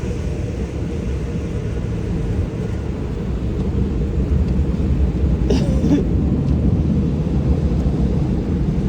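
Automatic car wash running, heard from inside the car: a steady low rumble that grows a little louder, with a brief higher-pitched sound about five and a half seconds in.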